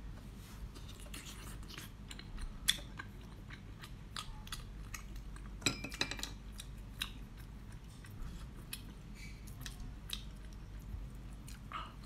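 Close, wet mouth and food noises of someone handling and chewing braised octopus: soft smacks and irregular small clicks, with a few sharper clicks, one about three seconds in and a cluster near six seconds.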